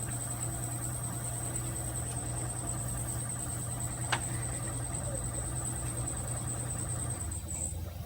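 Engine idling steadily, a low hum with a thin high whine over it and one sharp click about four seconds in. Near the end the whine stops and the hum drops slightly in pitch.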